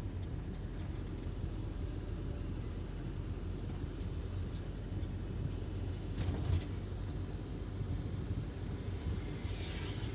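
Steady low rumble of a car's engine and tyres heard from inside the cabin while driving, with a short knock about six seconds in.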